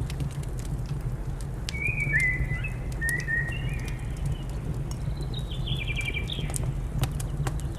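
Wood fire crackling with scattered sharp pops over a steady low rumble, while a small bird sings a run of short whistled phrases from about two seconds in, ending in a quick trill near six seconds.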